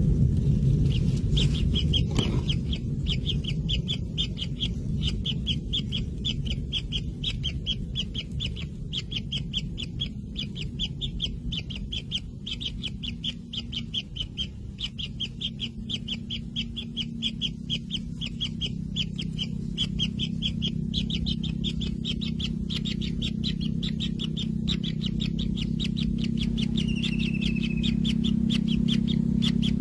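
Kingfisher chicks calling in a fast, unbroken run of high chirps, the begging calls of nestlings, with one falling note near the end. A steady low hum runs underneath.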